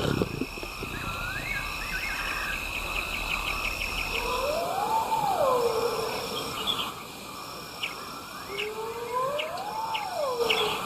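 Wild bush ambience: insects trilling and chirping steadily, with scattered bird chirps. Twice, a slow call rises and falls in pitch, once around the middle and once near the end.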